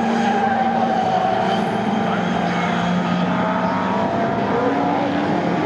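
Several pre-1966 touring cars racing at speed, their engines running together as steady, held tones that drift slightly up and down in pitch.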